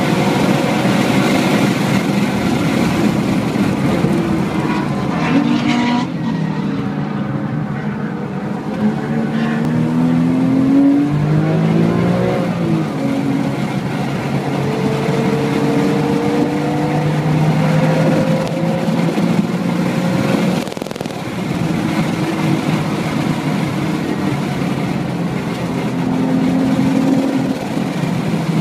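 Porsche 997.1 GT3's naturally aspirated flat-six heard from inside the cabin, at full throttle near 7,000 rpm. About six seconds in the engine note drops sharply as the car lifts off and brakes, then it rises and falls repeatedly through gear changes and hard acceleration out of the corners.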